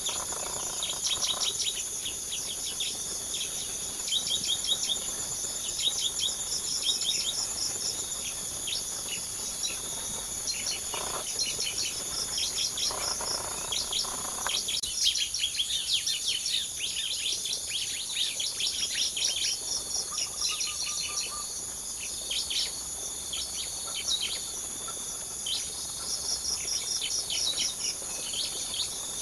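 Small birds chirping in quick runs of short, high notes, over a steady high insect drone.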